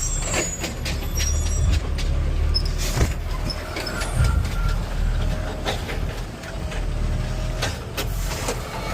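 Garbage truck's diesel engine running at a steady low rumble, with scattered knocks and clunks from the truck's automated arm handling a trash can.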